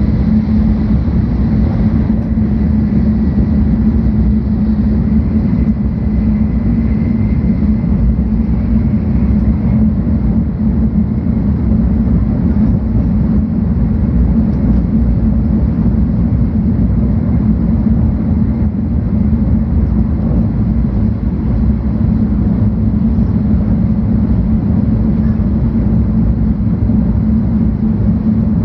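Steady running noise inside the passenger cabin of a 700 Series Shinkansen travelling at speed: a continuous low rumble and hum from the wheels, track and air rushing past.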